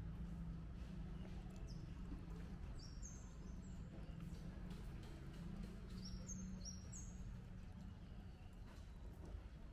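A small bird chirping in two short bursts of quick, high, downward-slurred notes, about three seconds in and again about six seconds in, over a low steady hum of distant traffic.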